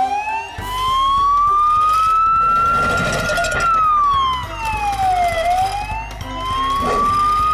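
Police-car siren in a slow wail: it rises for about three seconds, falls back over about two, then rises again. A low, steady music beat runs underneath.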